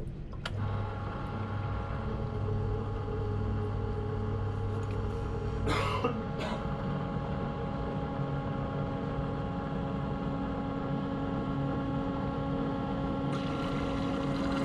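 Condensate pump starting about half a second in and running with a steady hum and whine, pumping out the water poured into it: a sign that the pump works. A brief rasping noise sounds about six seconds in.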